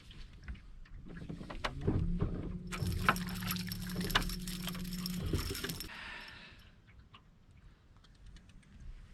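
A boat motor hums steadily at a low pitch from about a second in until it cuts off after about five seconds, stepping up once near the start. Knocks and rattles on the boat and a hiss run alongside it.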